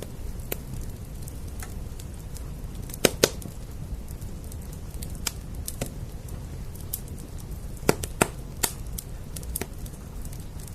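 Wood fire crackling, its sharp pops scattered irregularly, with two loud pairs of pops close together, one about three seconds in and another about eight seconds in. Beneath them runs a steady low hush of rain.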